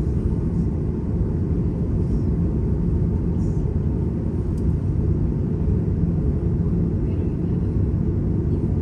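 Steady low rumble of an airliner's jet engines and airframe, heard from inside the passenger cabin.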